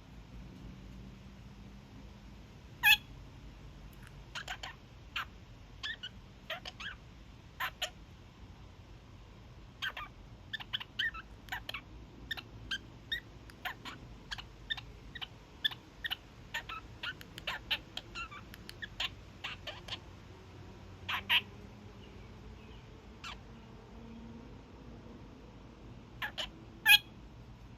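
Young male kakariki (New Zealand parakeet) honking: short, sharp calls, with a long run of quicker, quieter calls through the middle and single loud honks about three seconds in, about twenty-one seconds in and near the end.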